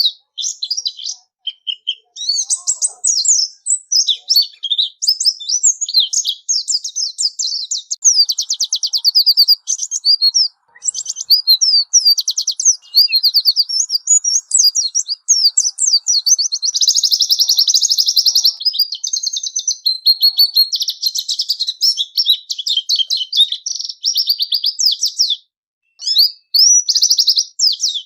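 Pleci (white-eye) singing a long, high-pitched, fast twittering song full of rapid trills, with a brief pause near the end.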